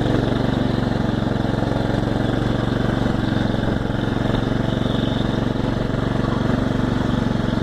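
Small tractor's engine running steadily while the tractor is driven.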